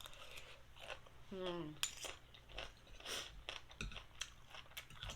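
Chewing and mouth sounds of someone eating noodles with fish paste, with scattered sharp clicks; a brief vocal sound about a second and a half in.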